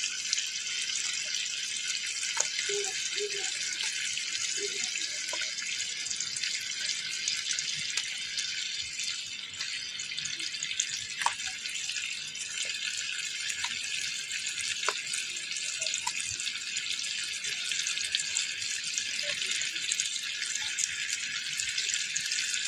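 Goat lung, heart and liver pieces sizzling in a frying pan of oily masala: a steady hiss with a few small pops scattered through it.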